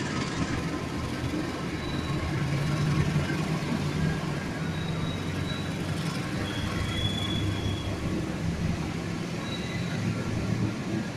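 Freight train wagons rolling past on the track: a steady low rumble, with a few brief faint high-pitched squeals from the wheels.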